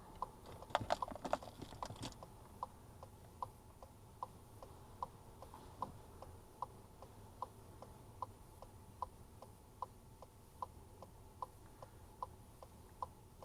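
Car indicator relay ticking steadily inside the cabin, about two and a half clicks a second, alternating loud and soft. A brief flurry of knocks and clicks comes in the first two seconds, over a low rumble.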